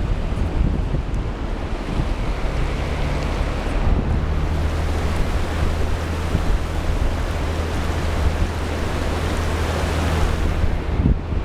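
Loud, steady rushing and wind noise over a low, even engine-like hum.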